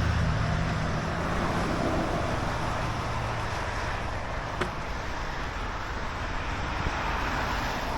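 Steady outdoor wash of rain and passing road traffic, with a low hum that fades away over the first couple of seconds and a single sharp click about halfway through.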